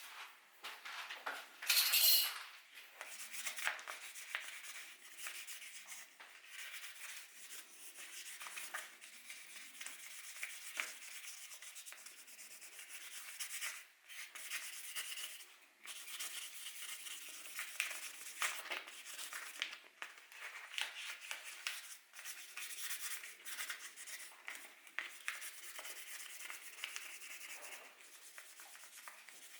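Hand sanding: a long run of short, scratchy rubbing strokes, with brief pauses about a third and half of the way through.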